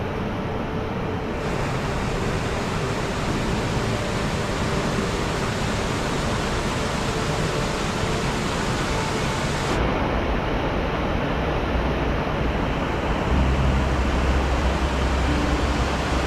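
Rain-swollen mountain stream rushing over rocks, a steady loud noise of water, with a deeper rumble coming in near the end.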